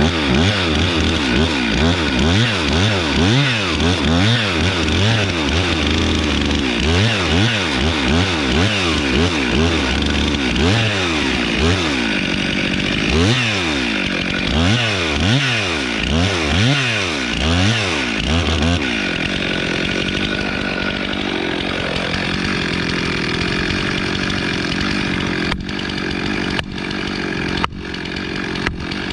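Chainsaw cutting wood, its engine pitch rising and falling rapidly over and over for about the first twenty seconds, then running more steadily.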